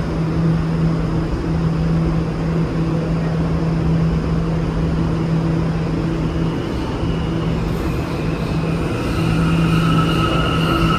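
New York City subway train running through the station with a loud, steady rumble and a low hum. In the second half a high-pitched wheel squeal sets in and grows louder.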